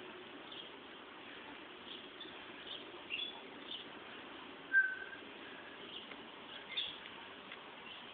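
Small birds chirping, short high chirps every second or so, with one louder, lower whistled note about five seconds in, over a faint steady hum.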